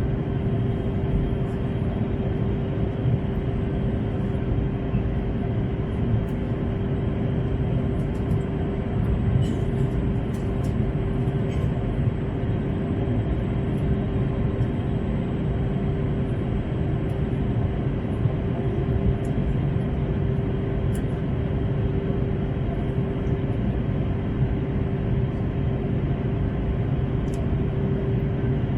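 Steady passenger-cabin noise of an Airbus A321 jet: a continuous engine rumble and rush with a constant hum, plus a few faint ticks about ten seconds in.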